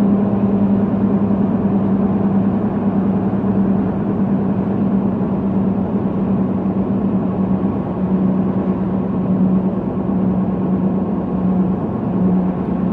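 Truck cruising on the highway, heard from inside the cab: a steady engine drone with a strong low hum, under road and tyre noise.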